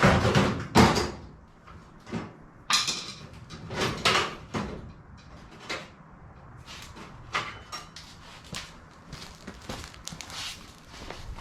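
A metal part being knocked and handled, then a hand file scraping off casting flash from the cast heater control piece in short, irregular strokes.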